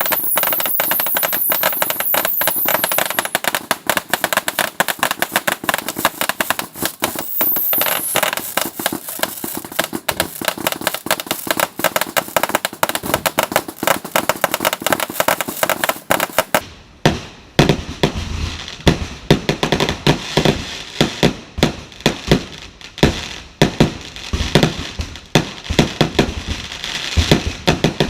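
Fireworks going off: dense, rapid crackling with high whistles near the start and again about eight seconds in. About sixteen seconds in the sound changes suddenly to a quick run of separate, heavier bangs.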